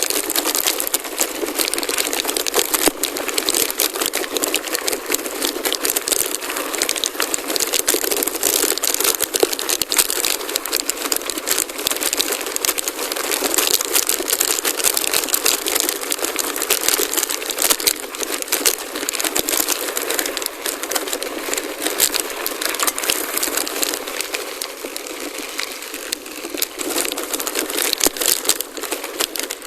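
Gravel bike tyres crunching over a loose gravel forest road, a steady crackling with many small clicks and rattles from the bike.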